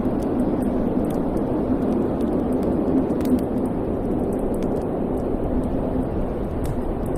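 Wood fire burning in a fireplace: a steady low rushing rumble of the flames with scattered small, sharp crackles and pops throughout.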